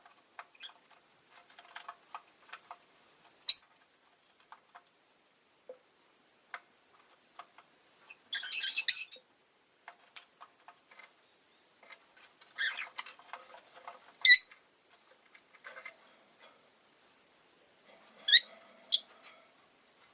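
Rosy-faced lovebirds chirping: a handful of loud, sharp, high-pitched calls a few seconds apart, some in quick clusters, with faint clicks and taps in between.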